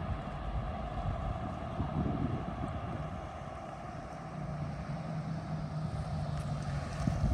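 Ford Bronco engine running through a newly fitted aFe Apollo GT stainless steel cat-back exhaust with no rear muffler, giving a steady low exhaust note. There is a short knock near the end.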